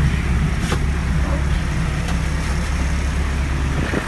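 Small cab tractor's engine idling, a steady low drone heard from inside the cab, with one sharp click under a second in.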